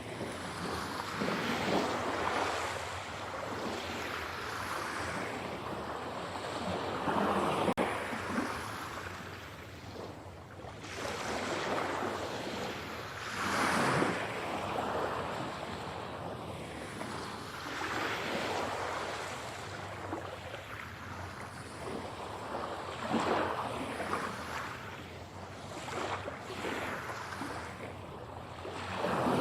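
Sea waves breaking and washing up on a shore, a steady rush that swells and falls every few seconds. The swells peak about 7 and 14 seconds in, and again a few times near the end.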